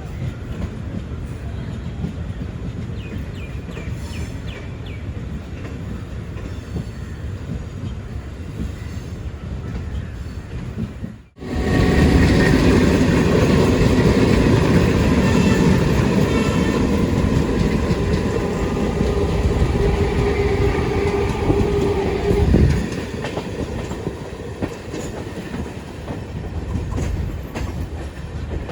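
Express passenger train running on the rails, its wheels clattering over the rail joints. After a brief break about a third of the way in, the running sound comes in louder, and a steady tone holds for a couple of seconds before cutting off.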